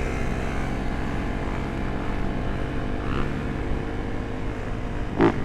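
Dirt bike engine idling steadily at low revs, with one short, loud sound near the end.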